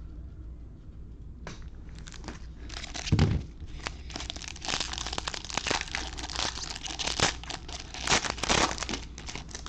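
Plastic foil wrapper of a baseball card pack being torn open and crinkled: a run of crackling rustles, with a thump about three seconds in.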